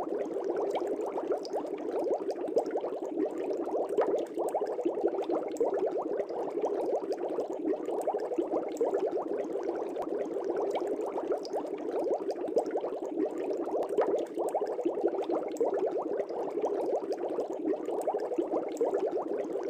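Air bubbles rising and bursting in an aquarium: a steady, dense bubbling with many small pops.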